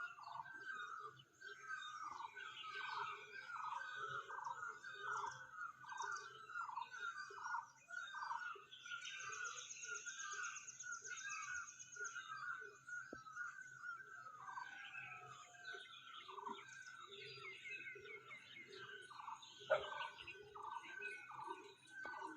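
Birds calling: one bird repeats a short falling call about twice a second throughout, over fainter, higher chirping from other birds. A thin, high trill runs for about three seconds in the middle.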